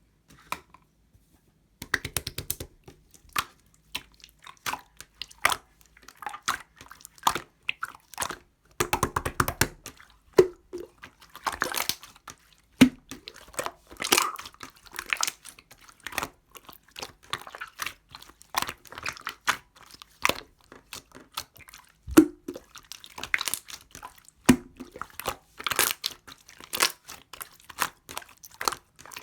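Clear orange jelly-textured slime being squeezed and stretched by hand, giving a rapid, irregular series of sticky clicks, pops and squishes. It starts after about two seconds of quiet.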